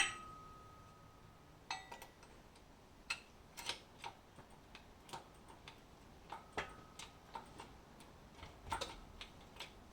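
Faint, uneven light metallic clicks and clinks, two of them ringing briefly, from jacking up an engine slightly to take its weight off the transmission.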